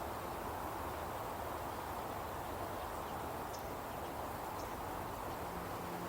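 Outdoor nature ambience: a soft, even rushing background with a couple of faint, short high chirps. Low, sustained music notes come in near the end.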